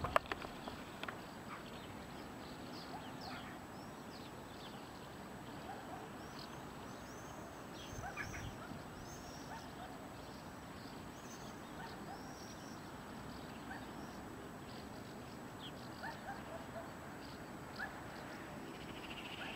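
Small birds chirping in short, scattered calls over a steady background hum of distant town noise, with a brief knock right at the start and a short buzzy trill near the end.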